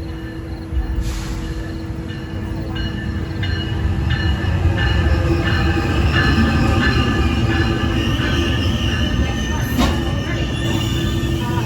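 A train passing on the tracks: a low rumble builds over the first few seconds and stays loud, with several high, steady ringing tones from the wheels and rails sounding above it.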